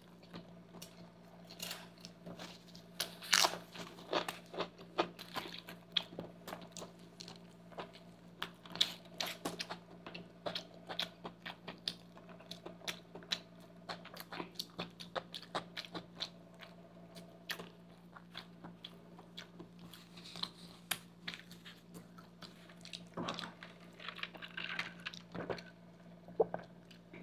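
Close-miked chewing and crunching of a burger stuffed with crisp potato chips: many small crunches in quick succession, over the steady hum of an air conditioner.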